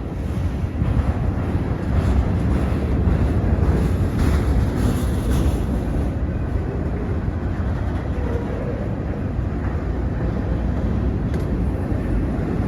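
Freight train rolling past with a steady rumble, and wind on the microphone.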